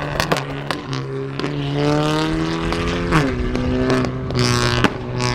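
A car engine revving hard: the pitch climbs for about a second and a half, drops sharply, then climbs again near the end, with sharp exhaust pops and cracks scattered through it.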